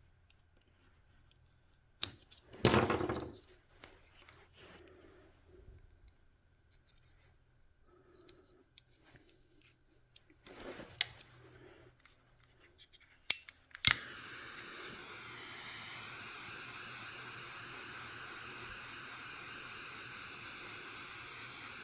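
Small hand tools working on wiring: sharp clicks and a loud, short snip or scrape like a cutter going through wire, then more clicks and handling. About two-thirds of the way in, a click is followed at once by a steady airy hiss that carries on.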